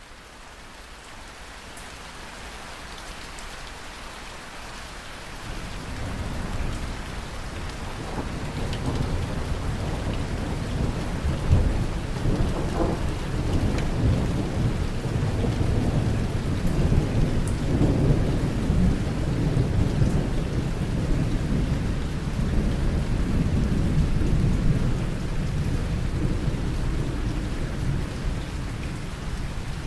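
Steady rain falling with deep, rolling thunder. The rain fades in at the start, and the low thunder rumble builds in after about five seconds and swells through the middle.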